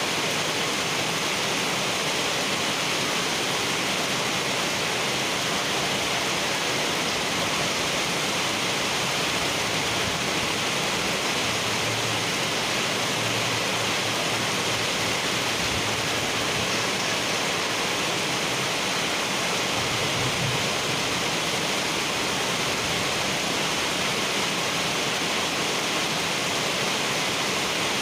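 Heavy rain falling on wet asphalt pavement: a steady, dense hiss of drops splashing on the road surface.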